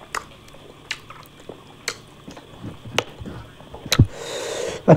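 Close-miked eating sounds: a person chewing, with sharp mouth smacks about once a second and a short noisy stretch near the end.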